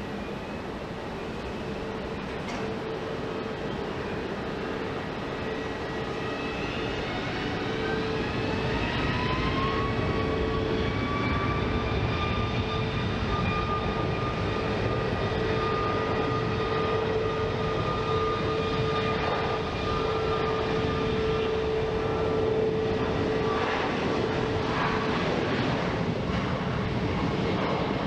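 Boeing 737 jet engines spooling up to takeoff thrust: a whine that rises in pitch for several seconds and then holds steady over a growing rumble.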